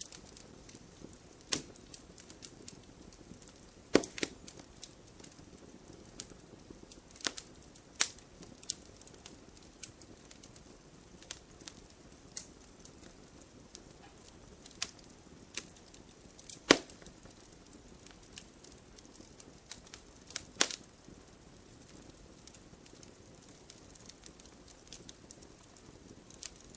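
Wood campfire burning, crackling steadily with irregular sharp pops every second or two over a soft low hiss; a few pops stand out louder than the rest.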